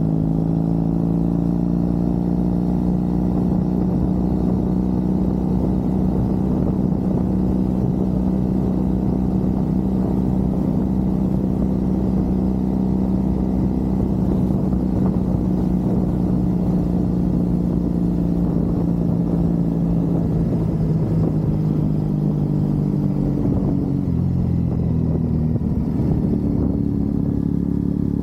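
Triumph Bonneville's parallel-twin engine running at a steady cruise while riding. About three-quarters of the way through, the engine note eases down and then settles at a new, steady pitch.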